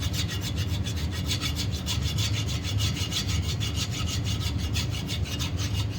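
Hand file rasping in quick, even strokes, several a second, on the cast-iron water pump mounting boss of a 350 Chevrolet block, taking a repair pin down flush with the pump mounting surface. A steady low hum runs underneath.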